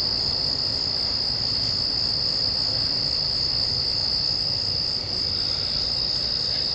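Night insect chorus: one unbroken, steady high-pitched trill, over a low rumble.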